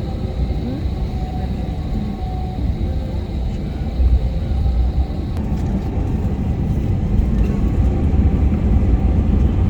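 Jet airliner heard from inside the cabin on the ground: a steady low engine and rolling rumble that grows louder through the second half, with a faint high whine that stops about halfway.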